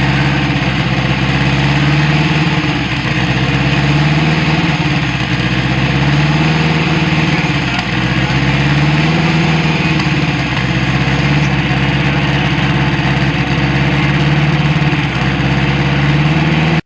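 Car engine idling loudly and steadily, its pitch rising and falling gently every few seconds.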